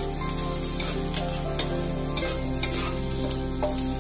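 Onions and sliced ginger sizzling as they fry in a metal wok, stirred with a wooden spatula that scrapes and taps against the pan several times.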